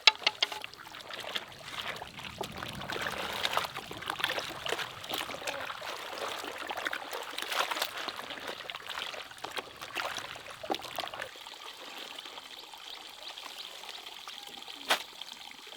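Water trickling, with scattered light clicks and knocks and one sharper click near the end.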